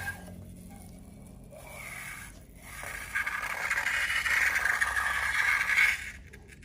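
Scraping, faint at first, then louder and steady from about three seconds in, stopping suddenly near the end.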